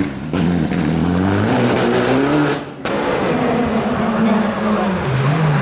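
Rally car engine revving hard, its pitch climbing, with two brief cuts in sound, just after the start and about two and a half seconds in, as the throttle lifts for gear changes, then running steadier.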